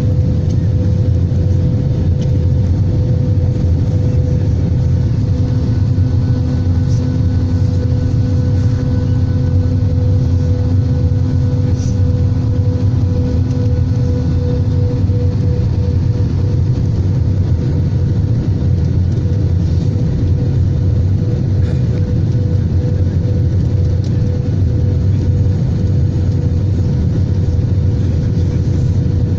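Steady cabin noise of an Airbus A320: a loud, even rumble of engines and airflow with a steady hum running through it.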